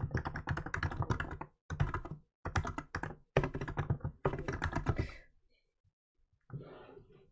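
Typing on a Hansung GK868B electrostatic capacitive keyboard with milk keycaps: fast runs of keystrokes broken by short pauses. Near the end the keystrokes stop and a softer, duller thud follows.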